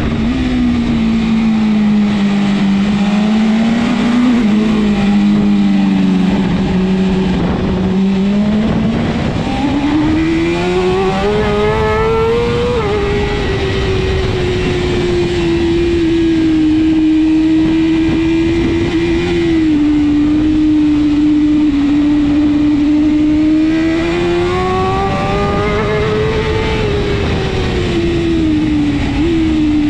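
BMW S1000RR inline-four superbike engine at racing revs, its pitch swinging up and down with the throttle, over steady wind and road rush. The revs climb about ten seconds in and drop at a gear change, hold steady, then climb again and fall off near the end.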